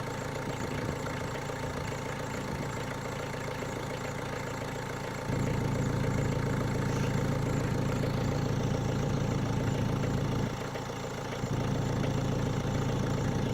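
Renault Mégane 1.9 dCi four-cylinder diesel idling steadily, still cold after a cold start in sub-zero weather. It gets louder about five seconds in, drops back briefly about ten and a half seconds in, then gets louder again.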